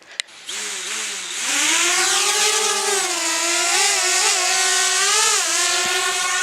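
DJI Spark quadcopter's propellers and motors whining with a hiss, the pitch climbing about a second and a half in and then wavering up and down as the motor speeds shift.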